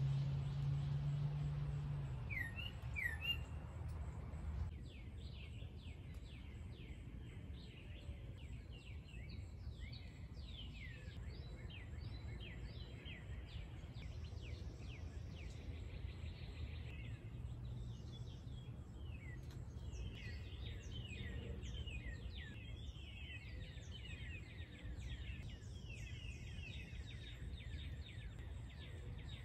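Songbirds chirping at dawn: many quick, downward-slurred calls repeating over a steady low background hum. A louder low hum stops about two seconds in.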